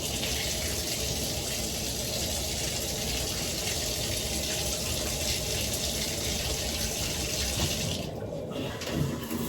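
Shower water running steadily, a hiss of spray that briefly drops back about eight seconds in.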